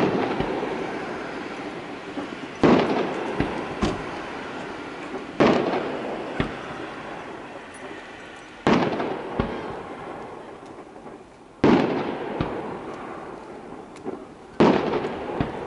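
Aerial firework shells bursting: six loud booms about three seconds apart, each echoing away over a couple of seconds, with smaller cracks in between.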